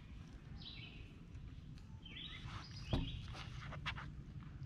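Birds chirping and singing in the woods. About three seconds in there is a single knock, followed by a few light clicks.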